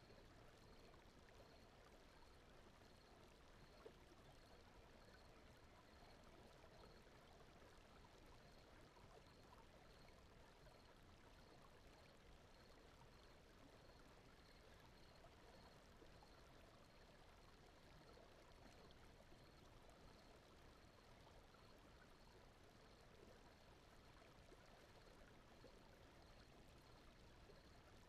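Near silence: a faint, steady bed of brown noise with flowing-stream water ambience, and a faint high pulse repeating about twice a second.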